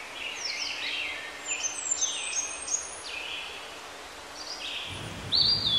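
Several birds calling: a run of short chirps and whistles that slide up and down in pitch over a faint outdoor hiss, with a louder held whistle near the end.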